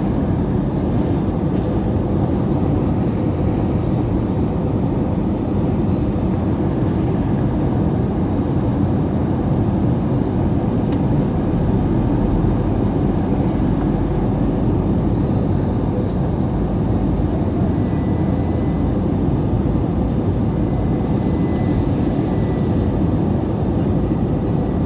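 Steady low rumble of engine and airflow noise from an Airbus A321-200 in flight, unchanging throughout, with a faint steady hum over it.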